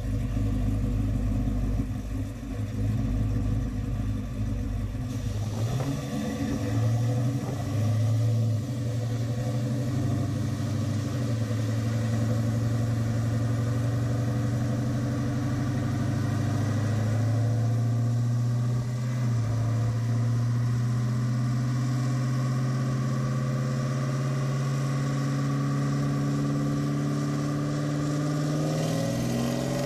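5.3 L Gen IV LS V8 in a 1981 Chevrolet Malibu running under load on a chassis dyno. The engine note steps up a few seconds in, then climbs slowly as the revs build, and rises more quickly near the end.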